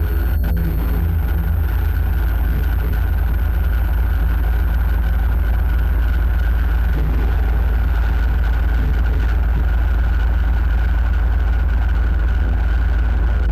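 Loud, steady low droning rumble with a constant high whine above it, unchanging throughout.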